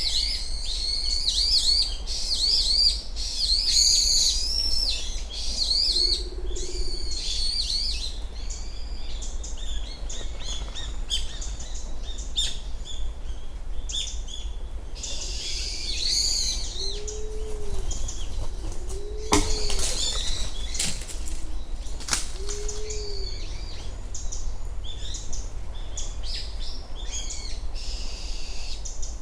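Small birds chirping and warbling in high, busy calls, with a short run of soft, low cooing notes from a pigeon about two-thirds of the way through and a couple of sharp clicks among them.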